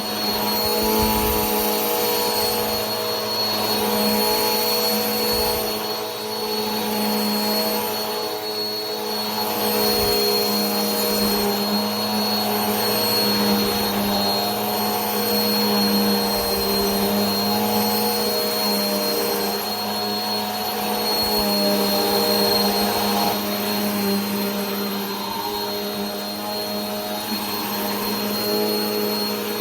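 Vacuum cleaner running continuously: a steady motor hum with a thin high whine and airy hiss, its loudness rising and falling gently every few seconds.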